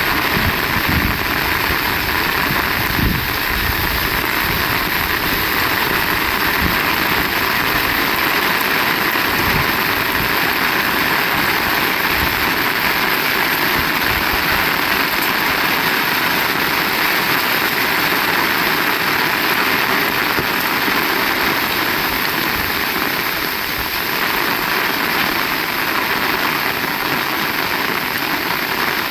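Heavy rain pouring steadily, a dense even hiss of rain on surfaces. Irregular low rumbles from gusts of wind come through over roughly the first ten seconds.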